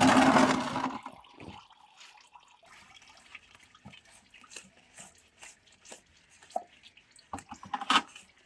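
Engine oil pouring and dripping from the tractor's oil filter mount as the filter is unscrewed: a loud rush at first that fades within about a second, then scattered drips and small metal clicks, with one sharp click near the end.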